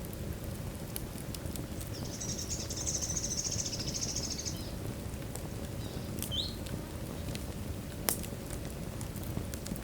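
Logs burning in a fireplace: a steady low rumble of flame with scattered crackles and pops, and one sharp pop about eight seconds in. A thin, high hiss rises for a couple of seconds about two seconds in.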